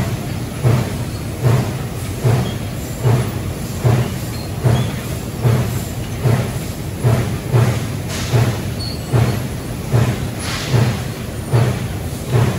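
Amada LC3015F NT 4000-watt CO2 laser cutting machine running a cutting program on 12 gauge steel. It makes a regular pulsing cycle about every 0.8 seconds, a low thump with a short hiss, over a steady machine hum.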